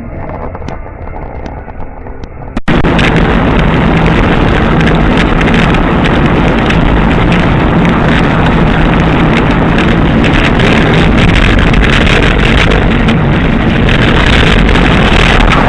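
After an abrupt cut about three seconds in, a loud steady rush of wind and road noise from a moving vehicle, with a low engine drone underneath.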